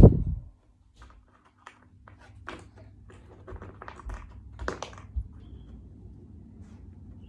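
A heavy thump at the start, then scattered light clicks and taps of jigsaw puzzle pieces being handled on a table.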